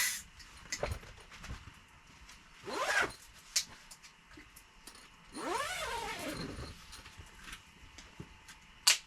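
Two rasping sweeps that rise and fall in pitch, a short one about three seconds in and a longer one past the middle, with a few sharp clicks around them.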